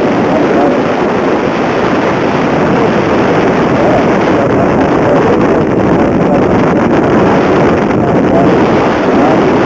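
Steady wind rush on the microphone of a moving motorcycle, with the Kawasaki Ninja 250R's parallel-twin engine running underneath.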